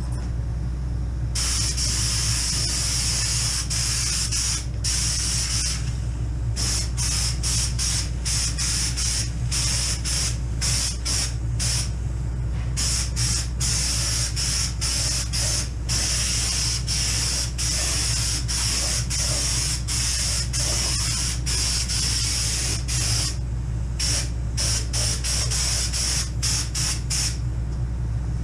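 Air-powered underseal spray gun spraying underbody sealant in repeated trigger pulls, a hiss that starts about a second in and comes in bursts, some several seconds long and others brief. A steady low hum runs underneath.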